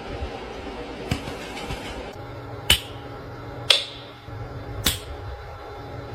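Four sharp clicks or snaps, roughly a second apart, over a faint steady low hum.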